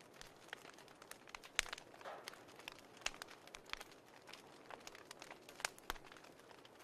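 Wood fire crackling: faint, irregular sharp pops and snaps over a soft steady hiss, with a couple of louder snaps.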